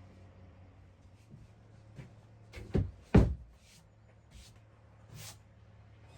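Several knocks and clicks of hard objects being handled, with two louder knocks close together about three seconds in.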